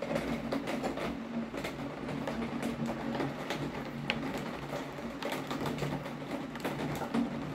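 Steady rain with many quick, irregular taps of raindrops striking a hard surface close by, over a low steady hum.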